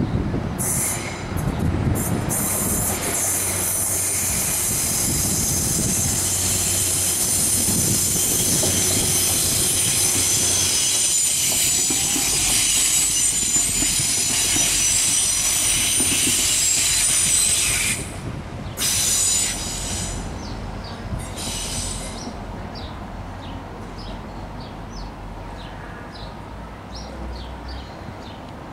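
Transport for Wales diesel multiple unit passing slowly, its wheels squealing loudly and steadily over a low engine rumble. The squeal cuts off about eighteen seconds in, flares briefly twice more, and the train's sound then fades as it moves away.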